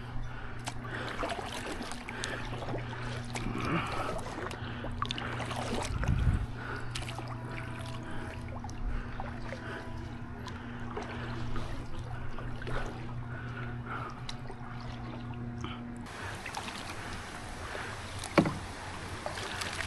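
Canoe paddle strokes: the paddle dipping and pulling through the water, with water splashing and trickling along the hull of a small solo canoe. A steady low hum runs underneath, and a single sharp knock comes near the end.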